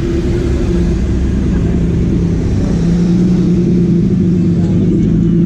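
A car engine running steadily with a deep rumble and a constant hum, growing a little louder about three seconds in.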